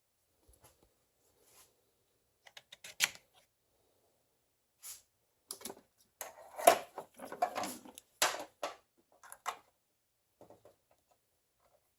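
Irregular clicks, taps and knocks of hard objects being handled, with short rustling in between, busiest in the middle stretch.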